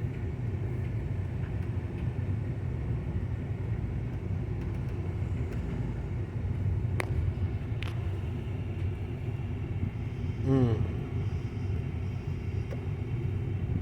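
Steady low rumble of a car idling, heard from inside the cabin. Two sharp clicks come about seven and eight seconds in, and a brief voice sound comes about ten seconds in.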